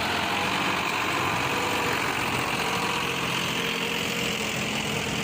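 Diesel engine of a heavy machine running steadily at an even speed.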